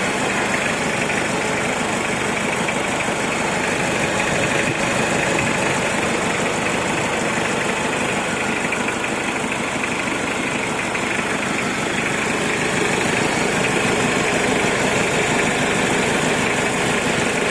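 Turbocharged Toyota 2C diesel engine idling steadily.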